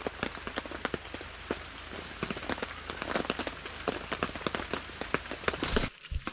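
Rain falling, with dense, irregular drops pattering on surfaces over a steady low rumble; the sound changes abruptly near the end.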